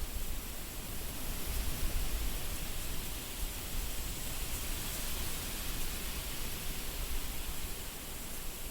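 Wind blowing, a steady rushing noise with a low rumble underneath that swells slightly about two seconds in.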